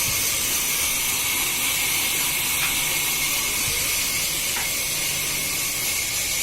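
Sawmill machinery running with a steady high hiss over a low rumble and a couple of faint clicks.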